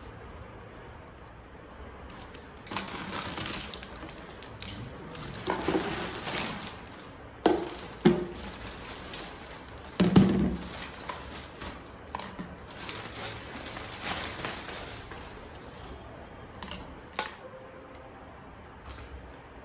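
Objects being handled by hand: stretches of rustling and scraping with a few sharp knocks and thuds, the loudest about ten seconds in.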